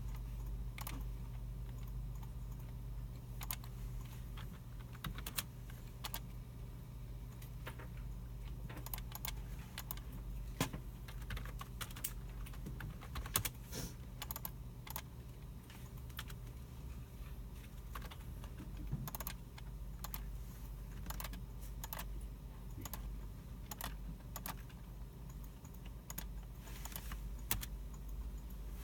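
Computer keyboards being typed on and mice clicked by several users, in irregular scattered clicks and short runs of keystrokes, over a steady low hum of the room's machines.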